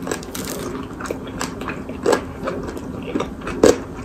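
Close-up chewing and biting of fried chicken, with irregular crunches.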